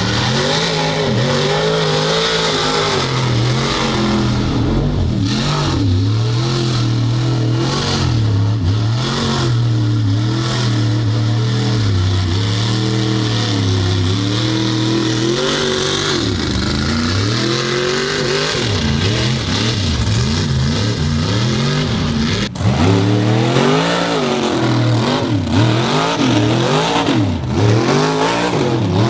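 Mud truck engines revving, the pitch climbing and falling again and again as the throttle is worked. The sound breaks off abruptly a little past two-thirds of the way through, and after that the revving swings up and down faster.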